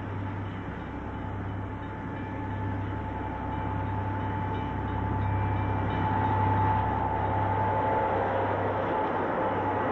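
Long diesel-hauled freight train running, a steady low hum with a faint high steady tone above it, growing gradually louder.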